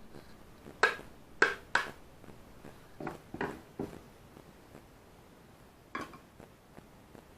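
Sharp metallic taps and clinks of metal tools: three quick, ringing strikes about a second in, a duller cluster of knocks around three to four seconds, and one more clink near six seconds.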